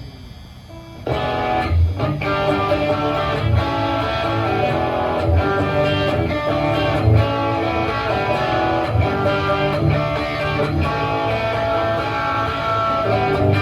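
Guitar intro of a live rock song, with strummed guitar over steady low bass notes. It starts about a second in, after a brief lull.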